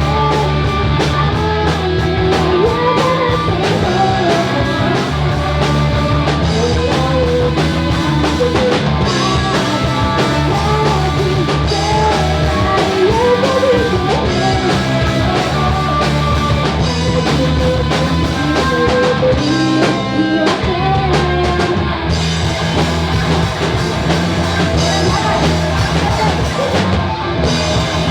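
Rock band playing a song: a sung melody over drums, bass and guitar, with a thinner stretch about twenty seconds in.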